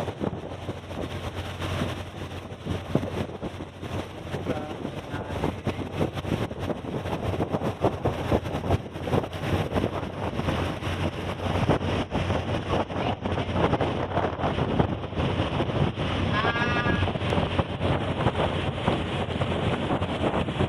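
Ship's engine hum with wind buffeting the microphone, and one short wavering high-pitched call about three-quarters of the way through.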